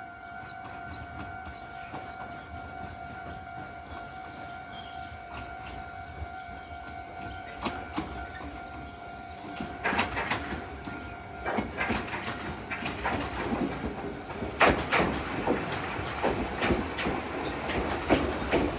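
Level-crossing warning bell ringing steadily until about ten seconds in. Then an Iyotetsu 700 series electric train's wheels clack over rail joints as it rolls into the platform, the clacks getting louder near the end.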